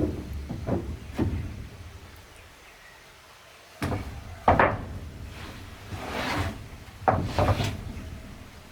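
Wooden boards knocking and clattering as they are handled: a string of irregular knocks and thuds, with a longer scrape of wood on wood about six seconds in.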